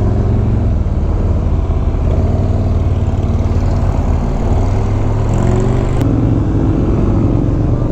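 BMW R1250 GS boxer-twin motorcycle engine running steadily under way, heard from the rider's position with road and wind noise. A single sharp click about six seconds in.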